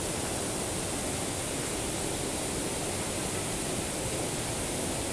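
Steady rush of a waterfall, an even roar of falling water without breaks.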